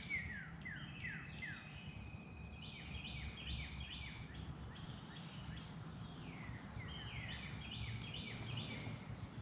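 Songbirds singing: runs of quick down-slurred chirps, several a second, with a lull in the middle, over a faint steady low rumble.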